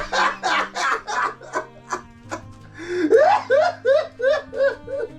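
A person's exaggerated vocal outburst in quick rhythmic pulses, about four a second, like laughing or sobbing, with a rising cry about three seconds in, over steady background music.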